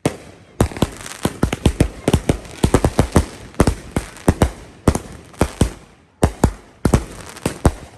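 Fireworks going off in quick succession: a dense run of sharp bangs and crackling cracks, several a second, with a short lull about six seconds in.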